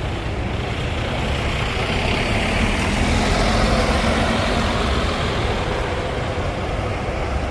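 A heavy vehicle's engine running close by with a steady low rumble, the noise swelling through the middle and easing off again.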